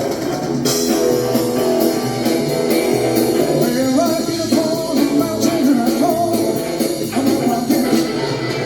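Guitar-led rock-and-roll music with a steady beat, and a voice singing a line midway through.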